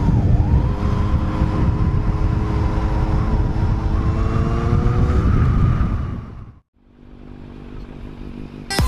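Motorcycle engine running at a steady cruise with heavy wind rumble on the microphone, fading out about six and a half seconds in; a quieter stretch follows, and music starts at the very end.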